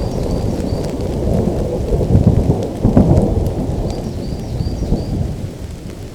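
Thunder rumbling over steady rain. The rumble swells about two to three seconds in, then fades away toward the end.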